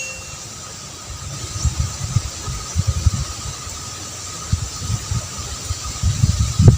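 Wind buffeting the microphone in uneven low gusts, under a faint steady high tone, with a sharper thump near the end.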